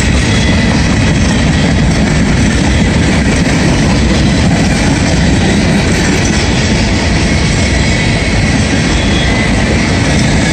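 Empty CSX hopper cars rolling past close by: a loud, steady rumble and rattle of freight car wheels on the rails, with a faint high steady tone running under it.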